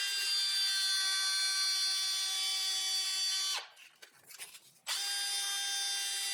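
Small high-speed power tool motor running with a steady whine; it cuts off about three and a half seconds in and starts again about a second later.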